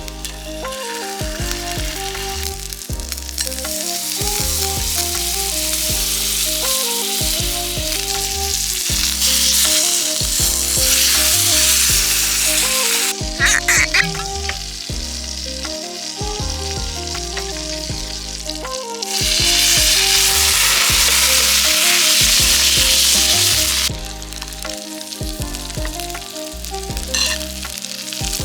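Thick chateaubriand steak frying in a hot pan, a loud steady sizzle that swells louder twice, with a few sharp clinks about halfway through.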